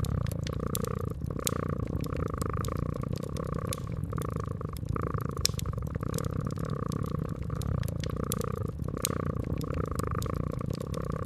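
Domestic cat purring steadily, swelling and easing about once a second, with the sharp pops and crackles of a fireplace scattered throughout.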